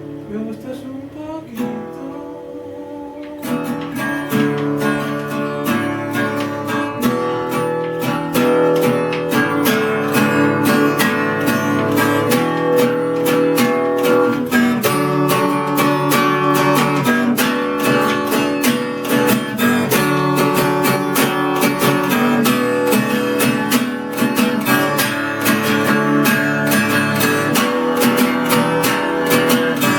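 Acoustic guitar played without singing: quieter at first, then strummed fuller and louder in a steady rhythm from about three and a half seconds in.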